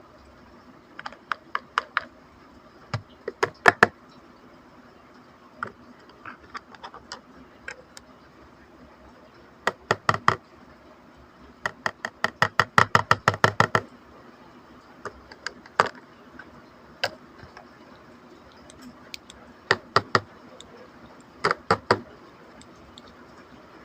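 Sharp little clicks and taps of small plastic toy pieces and packaging being handled, in scattered clusters, with a quick run of about a dozen clicks around the middle.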